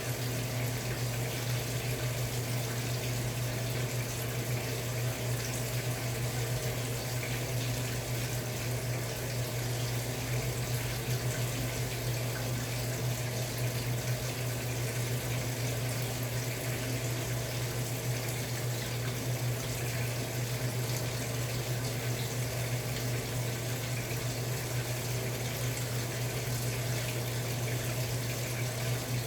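Samsung Wobble 14 kg top-loading washing machine running with a comforter inside, water rushing and churning in the drum over a steady low motor hum.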